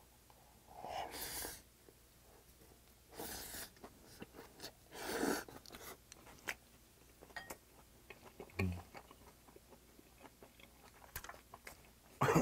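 Close-miked chewing of a mouthful of rice with spicy seasoned raw oysters, with three louder bursts of mouth noise in the first half. Scattered small clicks, a short low thump near the middle and a sharp click at the end.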